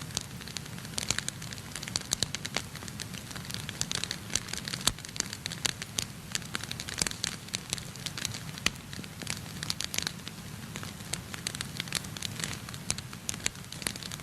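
Wood burning in a fireplace, crackling with many irregular sharp pops, a few louder than the rest, over a steady low background.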